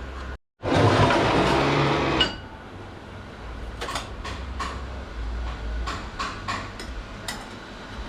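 A loud rushing noise for about a second and a half, then a string of light metallic clinks as steel clutch plates and friction discs are set into an automatic-transmission clutch drum.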